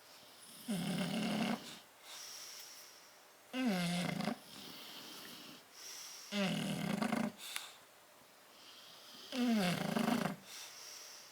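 Sleeping bulldog snoring: four loud snores, about one every three seconds, with a softer breath between each.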